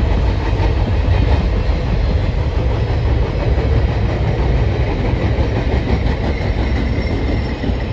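Freight train rolling past, a steady rumble of railcar wheels on the rails.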